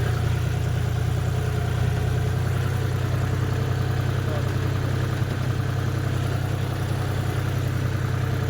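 Tractor engine running steadily at a constant speed, with no revving.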